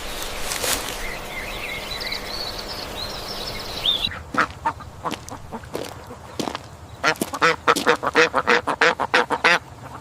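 Ducks quacking: scattered quacks starting suddenly about four seconds in, then a rapid run of loud quacks near the end. Before that, a steady outdoor hiss with faint high chirping.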